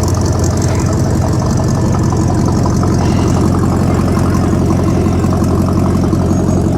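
Engine of an old vehicle running at idle at close range, a steady sound with rapid, even firing pulses as it creeps slowly along.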